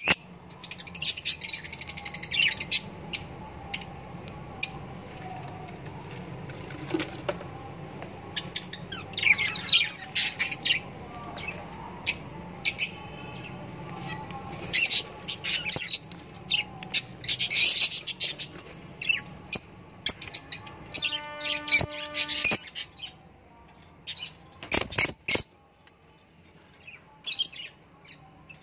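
Birds chirping in repeated clusters of short, high calls, with quieter gaps between the clusters.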